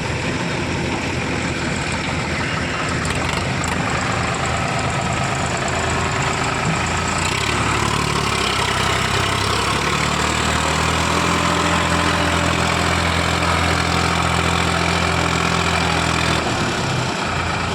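Sonalika tractor's diesel engine running steadily. From about seven seconds in it settles into a heavier, even note, which eases off shortly before the end.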